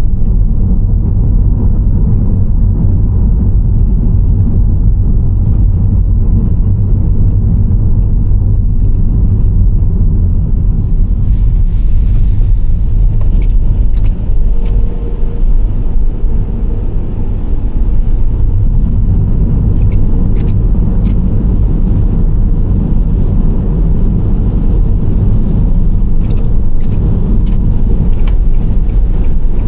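Nissan Serena C25 minivan driving: a steady low rumble of engine and tyre noise, with a few short sharp clicks around the middle and again near the end.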